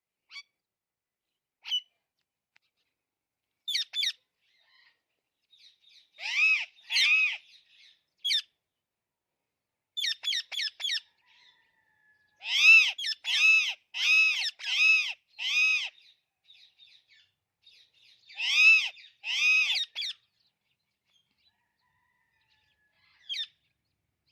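Parrot calling: loud, arching squawks in pairs and in one run of about six at roughly two a second, with short chirps and clicks between them.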